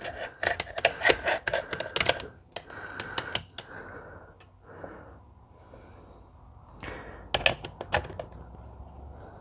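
Small metal injection-pump parts and hand tools clicking and clinking against each other during bench disassembly: a quick run of light clicks for the first three seconds or so, a brief hiss about six seconds in, and another few clicks near the end.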